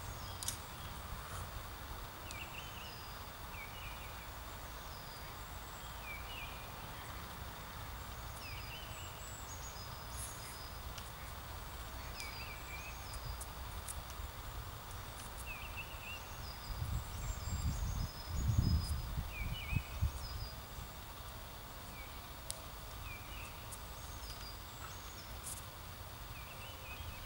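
Birds calling outdoors, a short repeated chirp every second or two with fainter higher chirps between. Under them runs a low wind rumble on the microphone that swells to its loudest about two-thirds of the way through.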